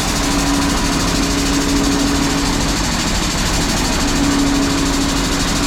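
Air-powered axle jack running as it lifts the truck, a loud steady hiss and rattle of the air pump that starts and stops abruptly. A steady hum from the chopper, whose knives are being sharpened, runs underneath.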